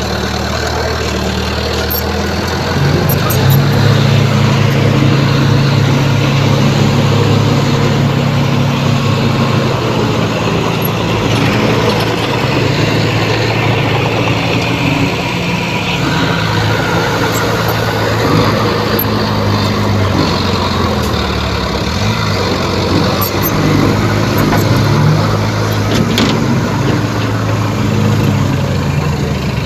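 Heavy diesel earthmoving machinery running steadily, its engine note stepping up and getting louder about three seconds in and holding there, with a few faint clicks over the top.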